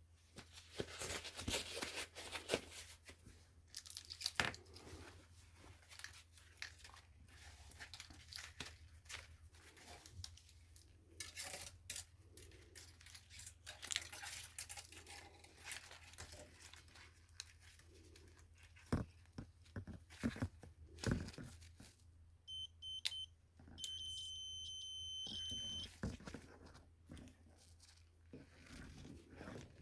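Clicks, rustling and crinkling from handling parts and wires, then a high electronic beep from a homemade continuity tester: a few short beeps, then a steady tone for about two seconds, signalling that the circuit conducts.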